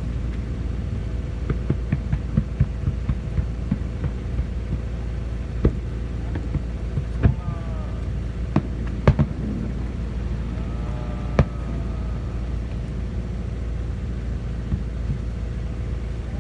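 Fireworks going off: a handful of sharp pops at uneven intervals over a steady low rumble.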